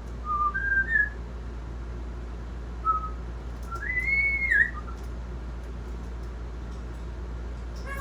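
African grey parrot whistling: three short notes stepping up in pitch in the first second, a brief note about three seconds in, then a longer arched whistle about four seconds in.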